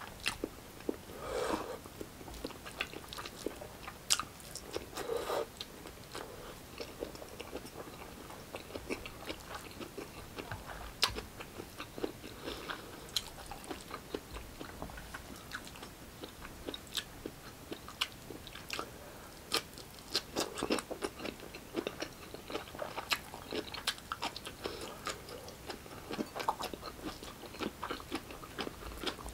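Close-up mukbang chewing: a man chewing a mouthful of rice and stewed pork hock kare-kare, with many irregular wet clicks and smacks of the mouth.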